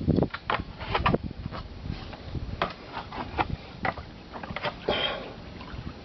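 Kayak paddling: irregular knocks and splashes as the paddle works the water and taps the hull, with a brief splashing rush about five seconds in.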